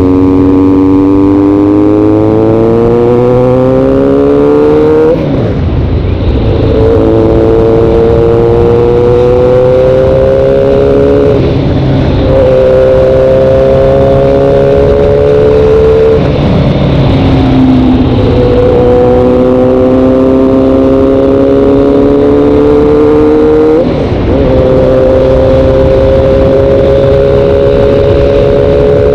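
Motorcycle engine accelerating hard through the gears. Its pitch climbs steadily for several seconds, then drops at each upshift, four shifts in all. Very loud and close.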